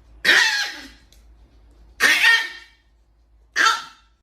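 Three short, loud coughs, about a second and a half apart.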